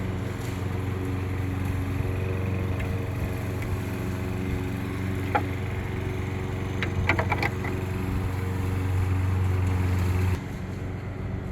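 A small engine or motor running steadily, a low droning hum, with a few faint clicks. The lowest part of the hum drops away near the end.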